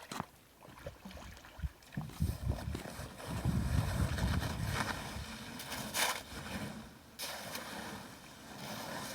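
Canoe being paddled through water, with wind rumbling on the microphone and a brief sharp sound about six seconds in.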